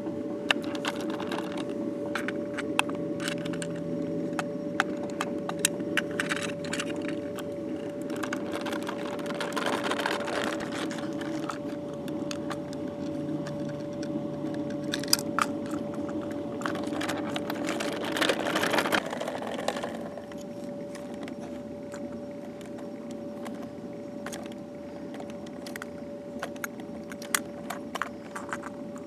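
A steady hum with a small-motor whir and many light clicks and rattles. The whir stops about 19 seconds in, while the hum and occasional clicks go on.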